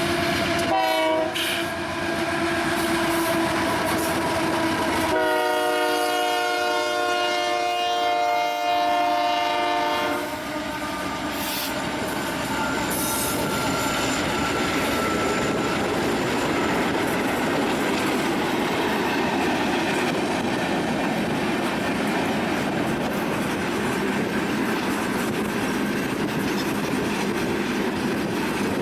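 Union Pacific train passing close by: the locomotive's horn drops in pitch in the first second or so, and a second long blast begins about five seconds in and lasts about five seconds. After it the steady rumble and clatter of railcars rolling past continues.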